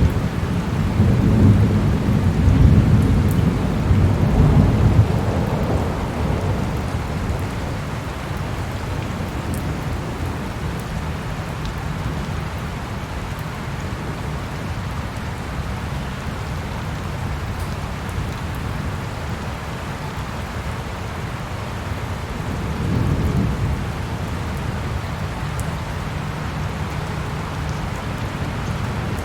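Steady rain falling, with a low rumble of thunder swelling through the first five seconds or so and a fainter rumble a little over twenty seconds in.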